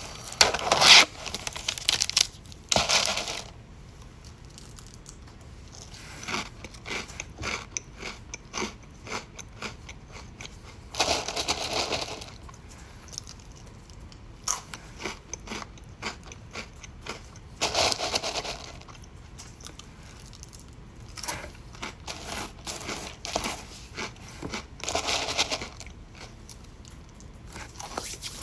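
A person biting into and chewing crunchy food close to the microphone, with a handful of louder crunches spread through and softer crackling chews in between.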